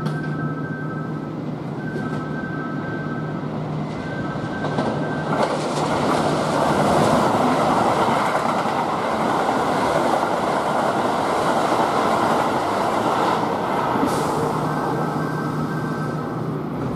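Kintetsu limited express electric train passing through a station at speed without stopping: the rush and rumble of wheels on rails swells about five seconds in, stays loud for several seconds, then eases off. A repeating two-note electronic warning tone sounds at the start and again near the end.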